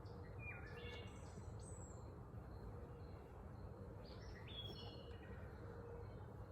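Faint birdsong: short chirps and whistles, one group in the first two seconds and another about four to five seconds in, over a steady low background rumble.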